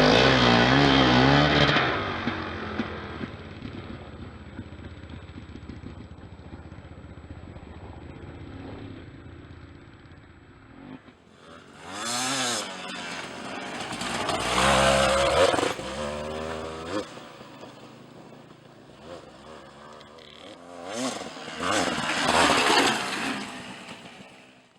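Dirt bike engines revving up and down. The sound is loud at first and then fades. It swells again three times in the second half, once near the end.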